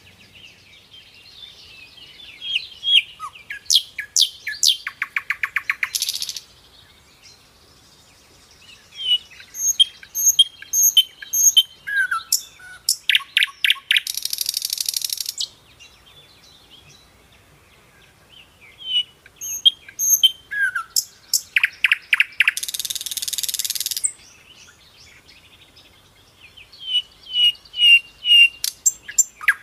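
Birds chirping and trilling, with a high buzzy hiss about a second and a half long that comes back roughly every eight seconds as the same sequence repeats.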